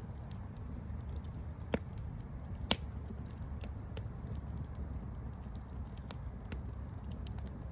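Wood campfire burning with a low steady rumble and scattered light crackles, and two sharp pops, the louder one close to three seconds in.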